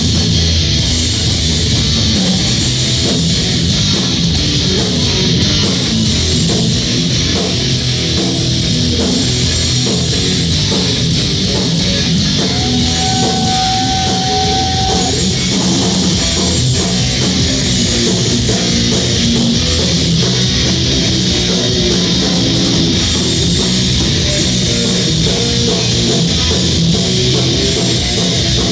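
Crossover thrash band playing live: distorted electric guitars, bass and drum kit, with one high note held for a couple of seconds about halfway through.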